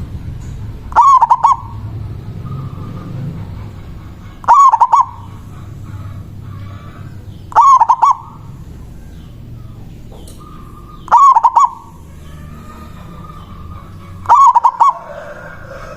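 Local Javanese zebra dove (perkutut) cooing: five loud calls, each a quick run of rolling coo notes lasting about half a second, repeated roughly every three and a half seconds. This is the male's territorial song, used as a lure that rival doves answer.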